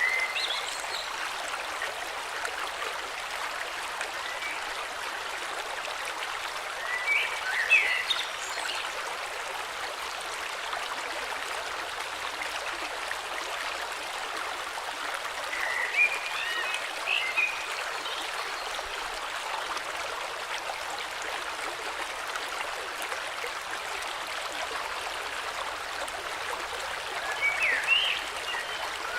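A flowing river rushes steadily. A bird sings short phrases of chirps over it: at the very start, then roughly every nine seconds, three more times.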